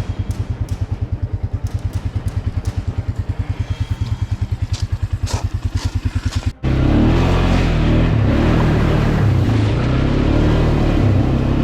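Small off-road vehicle engine chugging at low speed with an even pulse, about ten beats a second. After a brief cut a little over halfway through, it runs louder and rougher.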